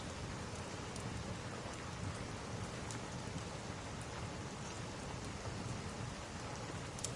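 Steady rain with scattered sharp crackles from a wood fire, a louder crackle near the end.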